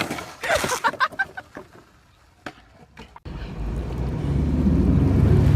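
A quick run of short, high pitched calls or squawks in the first second, then a lull with a few clicks. About three seconds in, a low engine rumble starts and builds steadily.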